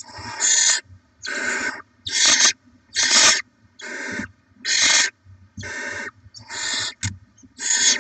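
Barn owl chicks making rasping, hissing begging calls, about a dozen half-second hisses in a row, some overlapping, with a short click near the end.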